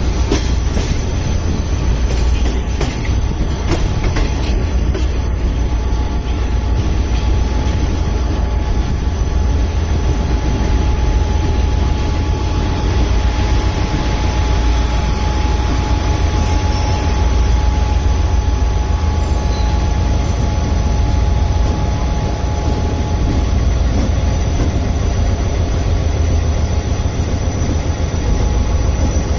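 Shah Latif Express passenger train running along the track, heard on board: a steady, loud low rumble of wheels on rail with a thin steady whine, and a few clicks over the first few seconds.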